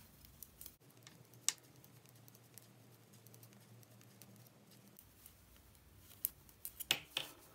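Knitting needles clicking faintly now and then as garter stitch is worked along a row, with a few sharper clicks near the end.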